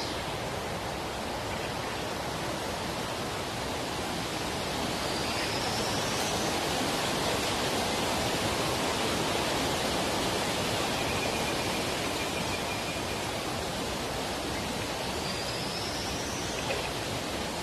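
Steady rush of flowing water, an even unbroken noise. Two faint rising whistles come through it, about five and fifteen seconds in.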